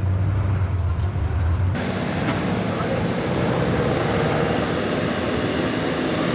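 A pulling truck's engine running with a steady low drone. A little under two seconds in, the sound changes abruptly to a harsher, noisier engine sound.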